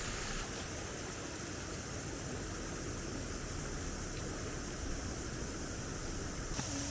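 Steady rushing hiss of water.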